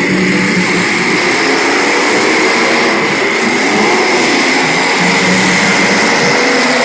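Several small race-car engines running together at speed, their pitches wavering up and down as they circle.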